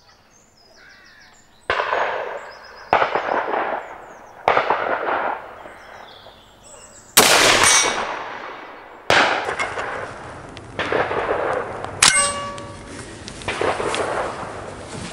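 .223 rifle fired at steel gongs, about eight shots spaced one to two seconds apart. Each shot is followed by the ringing clang of the struck steel plate.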